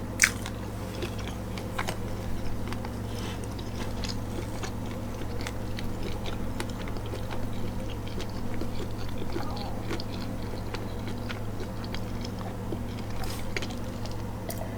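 A person chewing food close to the microphone: soft wet mouth sounds and small clicks, with one sharper click just after the start. A steady low hum runs underneath.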